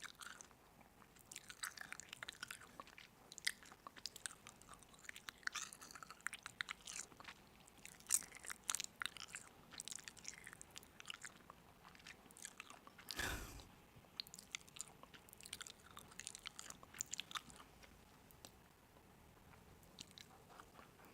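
Close-up chewing and crunching of crisp food: a steady run of short, crisp crackles and clicks, with one longer, deeper sound about thirteen seconds in.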